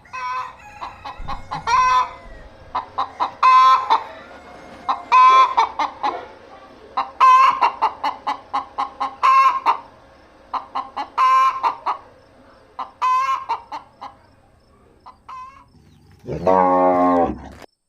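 Chickens clucking and cackling in repeated bursts of short calls, then a cow mooing once, long and low, near the end.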